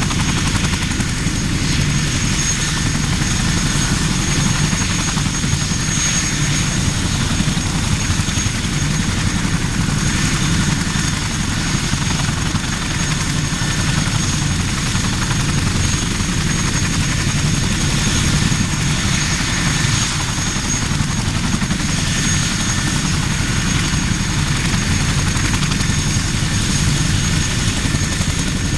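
CH-47 Chinook tandem-rotor helicopter running: a loud, steady rotor and turbine din with a thin, high whine over it.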